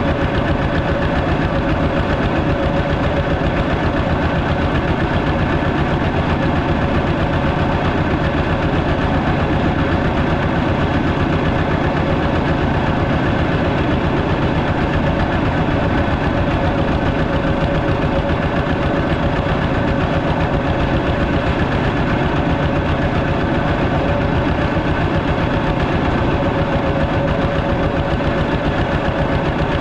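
Walking tractor's engine running steadily, with no change in speed or pitch.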